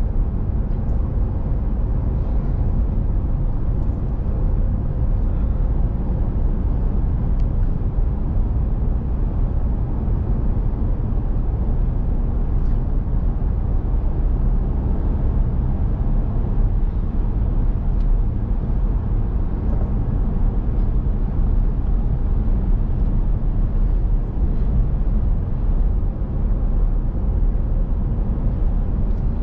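Steady low rumble of a car's engine and tyres heard from inside the cabin while driving, unchanging throughout.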